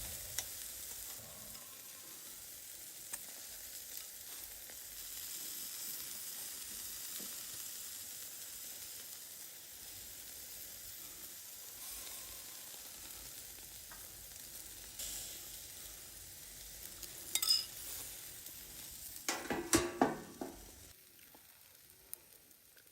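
Steak sizzling on a wood-fire grill, a steady high hiss with occasional small pops. Near the end come a few sharp knocks and a short clatter, after which the sizzle drops lower.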